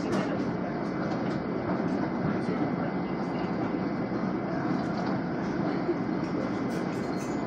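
Running noise heard from inside an LIRR M7 electric commuter railcar travelling between stations: a steady rumble of wheels on the rails, with a few faint light ticks.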